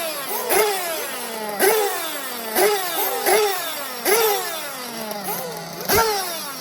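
Several 1/8-scale nitro off-road RC buggies racing, their small high-revving glow engines repeatedly snapping up to full throttle about once a second and winding down between bursts, several engines overlapping.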